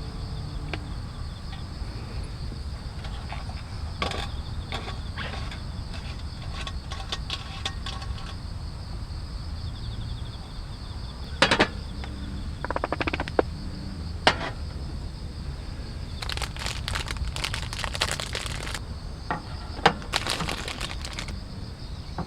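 Insects trilling steadily in the background, with scattered sharp clicks and knocks and a spell of rapid clattering in the second half.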